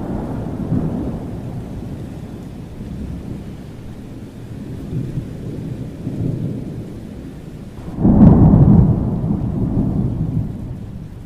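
Thunderstorm: rolling thunder rumbling low over steady rain, with a sudden louder thunderclap about eight seconds in that rumbles away over the next couple of seconds.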